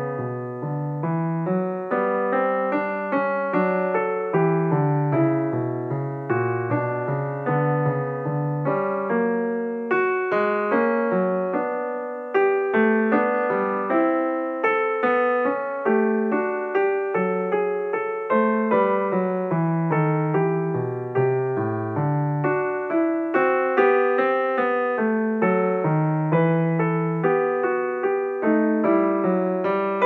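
Background music: a gentle solo piano melody over low notes, each note struck and then fading.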